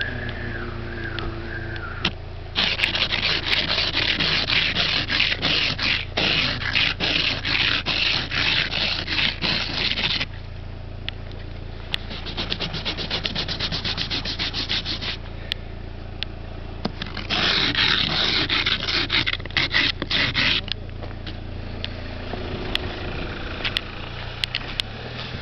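Snow and ice being scraped off a car window: fast back-and-forth scraping strokes in three spells, the middle one quieter and quicker, over a steady low hum.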